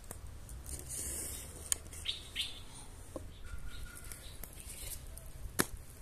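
Outdoor ambience of small birds chirping now and then, over a low steady rumble, with two sharp clicks, the louder one near the end.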